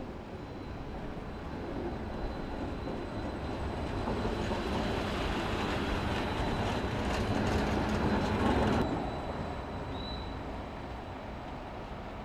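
A train going by: the noise builds for several seconds and is loudest with a rush of rail noise, then drops off sharply about nine seconds in.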